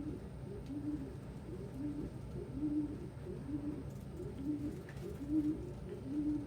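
Several domestic pigeons cooing together: short, low, rounded coos repeated about once or twice a second, overlapping at two slightly different pitches.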